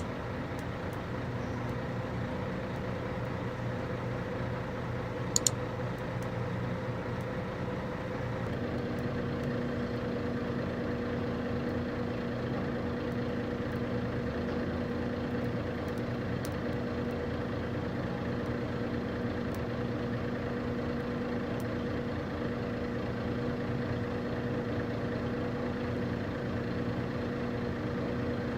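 Heavy diesel engine running steadily at a low idle, its note shifting slightly about eight seconds in. A couple of short sharp clicks about five seconds in.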